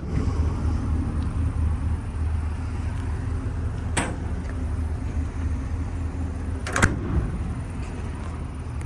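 A pipe vise mount being slid and set on a steel utility truck bed, giving two sharp metal clicks about four seconds in and near seven seconds, the second one doubled. A steady low rumble runs underneath.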